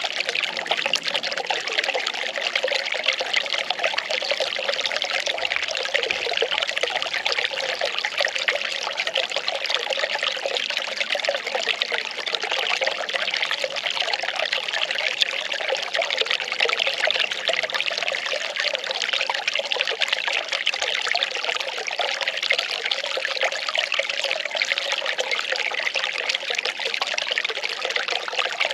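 Well water pouring and trickling in a steady, unbroken stream.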